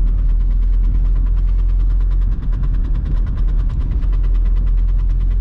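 Cabin sound of a VW Golf 3's 1.9 TDI diesel cruising in fifth gear, a steady low drone with a fast, even ticking over it. The ticking is the noise the driver could not fix, which the owner puts down to the handbrake cable touching the rear tyre.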